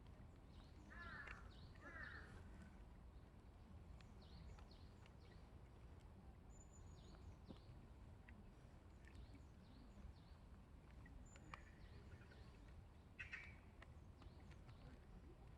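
Faint animal calls over a low steady background rumble: harsh, caw-like calls about one and two seconds in and again near the end, with scattered small chirps and two brief high whistles.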